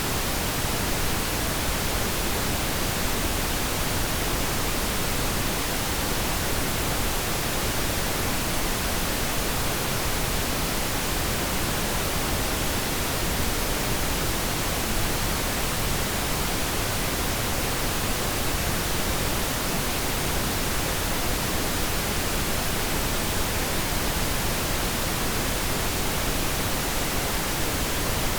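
Pink noise: a steady, unchanging hiss spread evenly across all pitches, generated as a masking sound for tinnitus.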